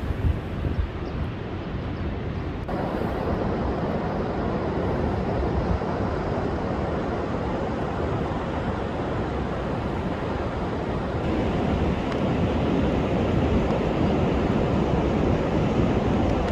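Heavy storm surf with strong wind, a steady rush of breaking waves that grows louder in two steps, about three seconds in and again around eleven seconds. The seas are driven up by a high-wave advisory.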